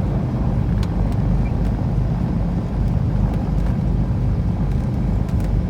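Cessna 310Q's two Continental IO-470 six-cylinder piston engines running at low taxi power, a steady low drone heard from inside the cabin.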